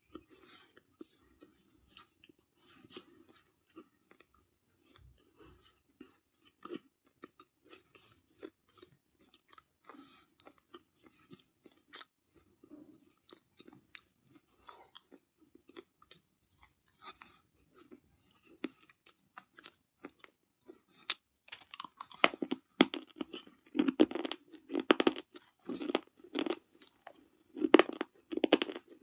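Pieces of baked clay bitten and chewed close to the microphone. Faint scattered crackles at first, then from about 21 seconds in, loud, dense crunching.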